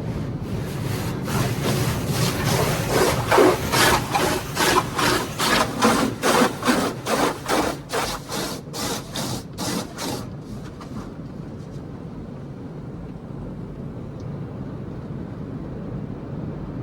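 Automatic car wash brushes rubbing and slapping over the car in regular swishes, about two a second, that fade out after about ten seconds and leave a steady hum of machinery.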